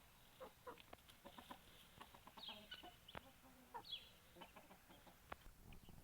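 Chickens clucking softly, with scattered short clicks and two high, falling chirps around the middle.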